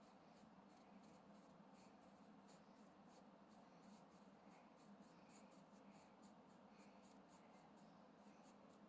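Faint, quick scratching strokes of a colouring tool rubbed back and forth on paper as a picture is filled in, over a low steady hum.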